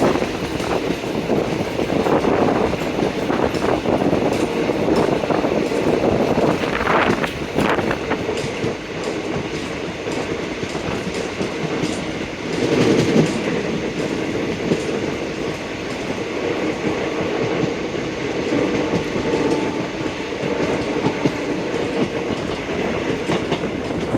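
Passenger train running along the track, its wheels clicking irregularly over rail joints under a steady rumble and rattle of the coaches.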